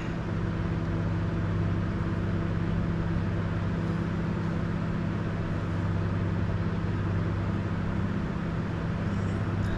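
Steady low machine hum with several held tones, unchanging throughout.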